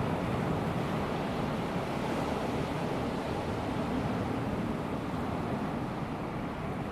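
Small waves of a calm sea washing steadily onto a sandy beach, an even rushing wash with no single break standing out.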